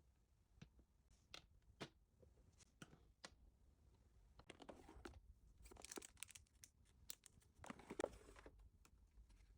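Faint rustling and crinkling of packaging being handled, with scattered light taps and clicks. The rustling is busiest from about halfway through and again near the end.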